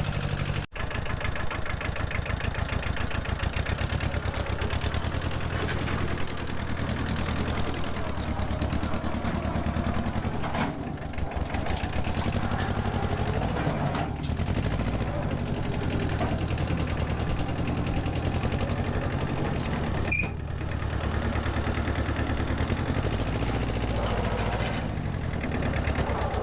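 An engine running steadily, its speed shifting up and down now and then as if working under changing load.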